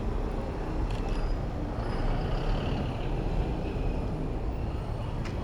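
Steady city road traffic heard from a bicycle, with a heavy low rumble of passing vehicles and two brief clicks, one about a second in and one near the end.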